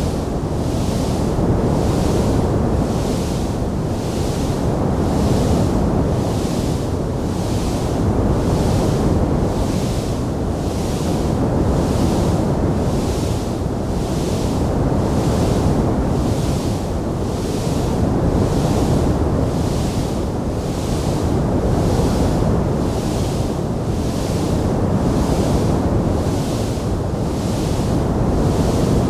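Fireplace ambience track: a steady low rushing roar with a high hiss that swells and fades about once a second, without distinct sharp crackles.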